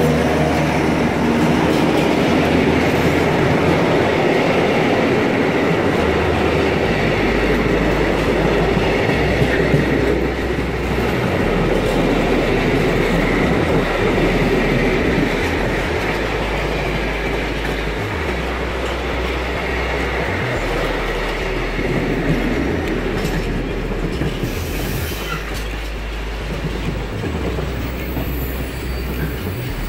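Container flat wagons of a long freight train rolling past close by: a steady rumble and clatter of steel wheels on the rails, easing off slightly toward the end.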